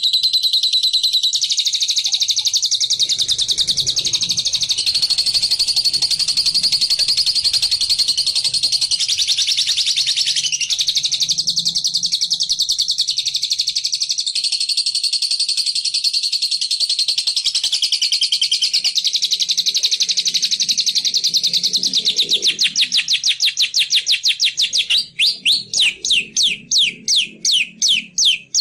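A small songbird's loud, rapid, unbroken high trilling chatter, the 'ngekek' song played as a lure to get a silent bird to sing. Near the end it changes to a run of sharp down-slurred notes, about three a second.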